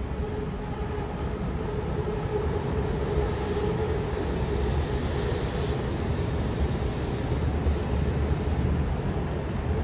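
BTS Skytrain electric train approaching along an elevated viaduct track, its running noise slowly growing louder.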